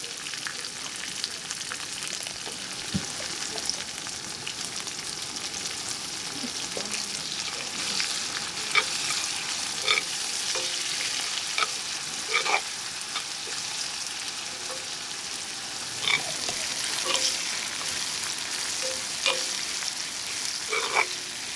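Food sizzling in a hot pan, a steady hiss, with several short metallic clinks and scrapes of a utensil against the pan in the second half.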